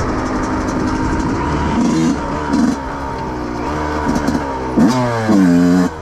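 2005 Yamaha YZ125's 125 cc single-cylinder two-stroke engine running under throttle, with short blips of revs about two seconds in and a quick rise in revs near the end, held high for about a second.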